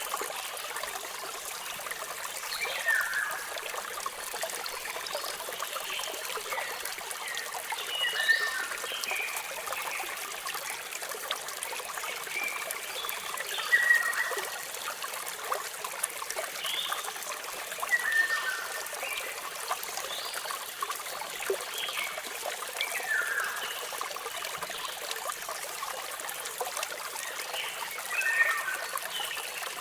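A waterfall's water running in a steady hiss, with birds chirping on and off every few seconds.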